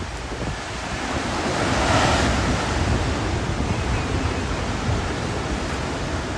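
Hurricane wind blowing in a steady rush with wind buffeting the microphone. A gust swells about two seconds in.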